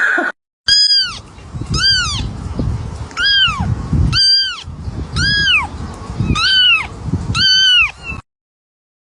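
A cat meowing over and over, about seven high-pitched meows roughly a second apart, each rising then falling in pitch. It cuts off abruptly near the end.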